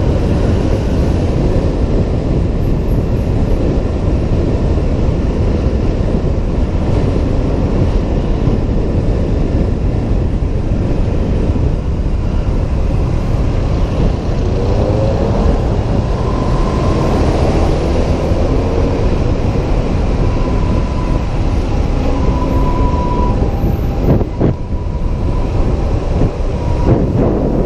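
Wind rumble and road noise from riding a Honda PCX 125 scooter, heard through a helmet-mounted camera's microphone, with the engine and traffic underneath. A rising whine comes in about halfway through, and a couple of short knocks come near the end.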